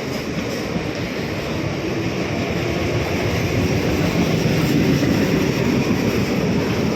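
Mumbai suburban local electric train running along the platform, its noise growing louder around the middle and easing slightly near the end.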